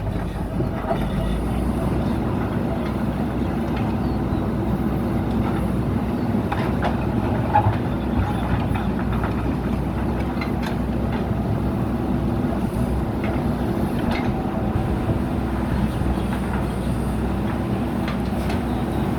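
JCB backhoe loader's diesel engine running steadily under working load, with a few short sharp knocks from the machine at work, the loudest about seven seconds in.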